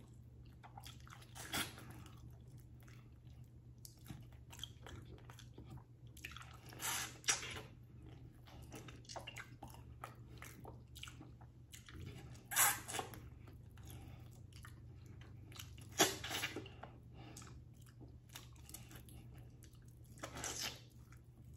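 Close-miked mouth sounds of eating oxtail meat pulled off the bone by hand: soft chewing with wet lip smacks, and about five louder smacks spread through. A faint steady low hum lies underneath.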